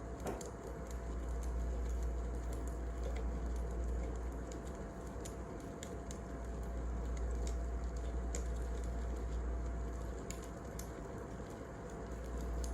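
Wood fire burning: a steady hiss and low rumble with sharp, irregular crackles and pops scattered through it.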